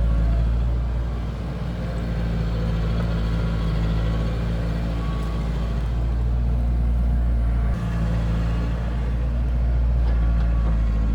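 Diesel engine of heavy construction machinery, an excavator or a dump truck, running steadily with a deep, continuous rumble. The sound drops briefly and abruptly just before the eighth second, then carries on.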